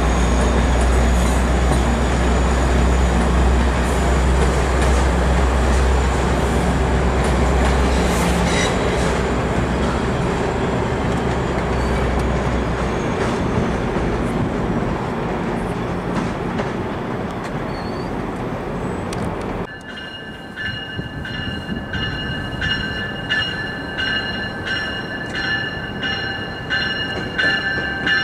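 Low rumble of a departing train that fades away over the first half. After a sudden change about two-thirds through, steel wheels give a steady high squeal and click over the switches as a GO Transit bilevel train rolls in slowly.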